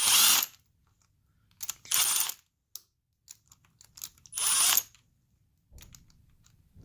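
Impact tool with a 10 mm socket spinning out the fuel-rail hold-down bolts in three short bursts of about half a second each, with faint small clicks of handling between them.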